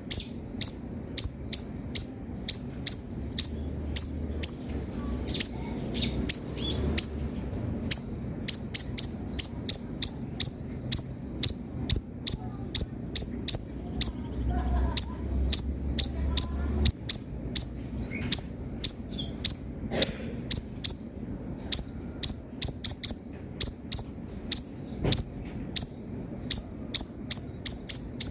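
Kolibri ninja sunbird chirping fast and high-pitched, about two to three sharp notes a second, in long runs with a couple of short pauses. A faint steady high tone sits underneath.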